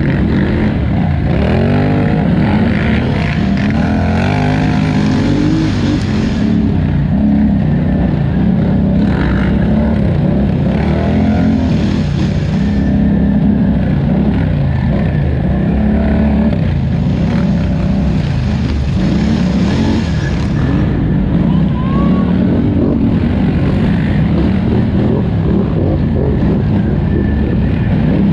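2018 Polaris Scrambler XP 1000 ATV's twin-cylinder engine running hard, its pitch rising and falling again and again as the throttle is opened and backed off.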